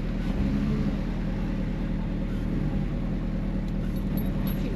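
Off-road 4x4's engine running steadily at low speed, with a slight rise in its note in the first second.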